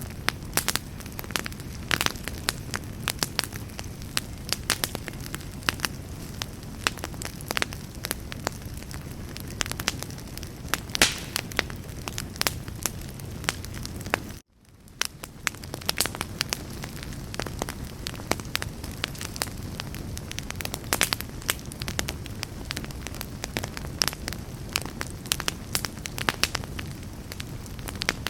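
Wood campfire burning, with a steady low rumble and frequent sharp crackles and pops. About halfway through the sound cuts out abruptly, then fades back in over a second or so.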